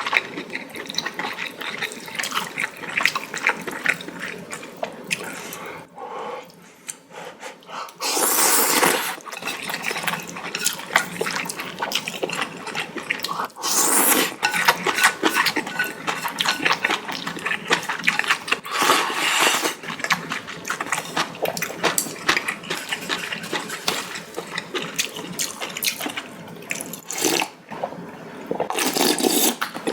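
A person eating noodles: several long, loud slurps of noodles and broth, with wet chewing and smacking in between.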